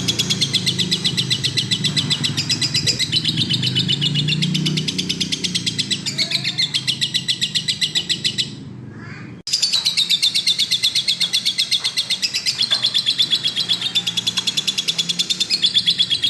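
Lovebird singing without pause: a long run of rapid, shrill chattering notes, about four or five a second, breaking off briefly around eight and a half seconds in before going on again.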